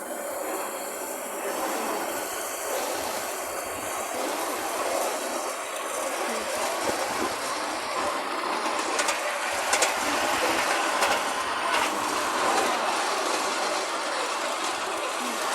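Miniature railway train running along the track, heard from aboard: a steady rumble of wheels on rail that builds a little over the first few seconds, with a few sharp clicks near the middle.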